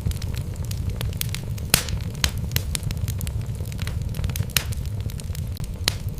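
Wood logs burning in a fireplace: a steady low rumble of the flames with irregular sharp crackles and pops, the loudest pop a little under two seconds in.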